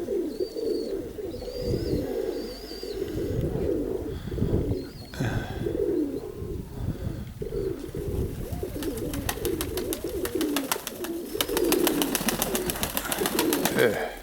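A flock of domestic pigeons cooing continuously, with a small bird chirping a few times early on. In the last five seconds there is a rapid, even rhythmic flutter that fits pigeons' wingbeats as birds come in to land.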